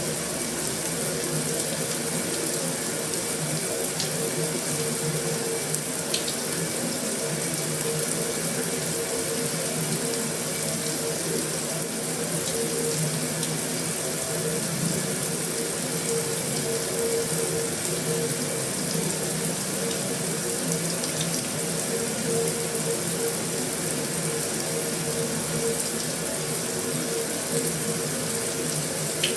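Heavy rain falling steadily on a metal roof: an even hiss with a few faint ticks of single drops.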